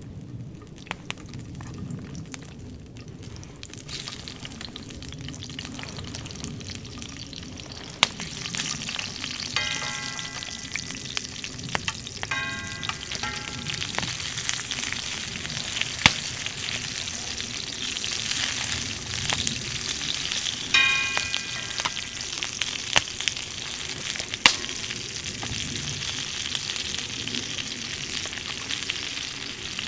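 Steak sizzling and frying over a campfire, with sharp pops of spitting fat; the sizzle grows louder about a third of the way in. A few short pitched rings or squeaks cut in briefly three times.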